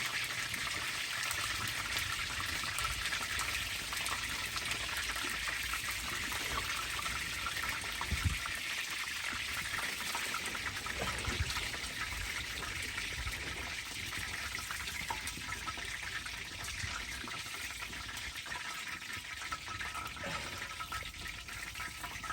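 Steady rain falling, an even hiss with no let-up, and a single dull knock about eight seconds in.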